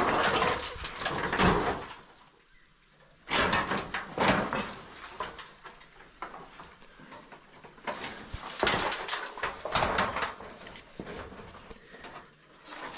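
Sheets of tin being lifted and scraped off a stack, in about three bouts of scraping and rattling with quieter pauses between.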